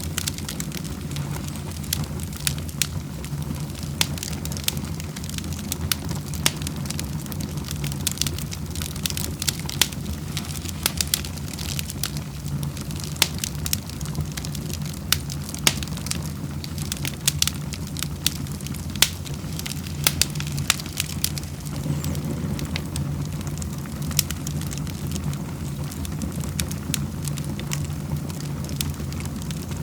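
Wood fire burning in a fireplace, crackling with irregular sharp pops several times a second over a steady low rumble.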